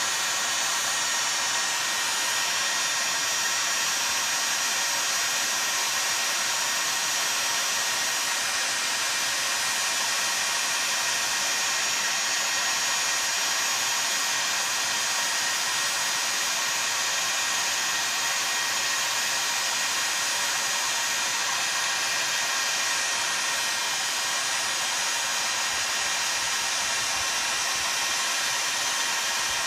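Heat gun blowing hot air steadily with an even rushing whir, heating a chainsaw crankcase half so it will slip over the crankshaft.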